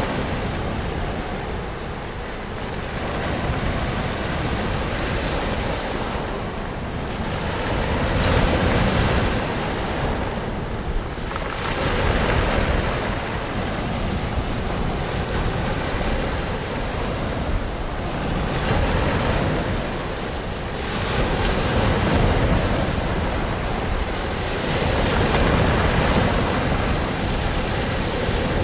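Ocean waves breaking and washing ashore in continuous surf, the level swelling and easing every few seconds.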